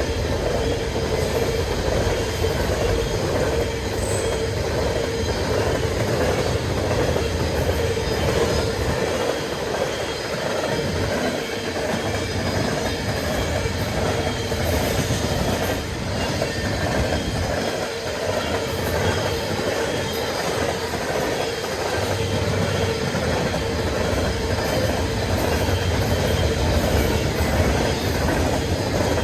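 A freight train's cars rolling past: steady wheel-on-rail noise with a continuous squeal from the wheels. A low rumble fades partway through and comes back near the end.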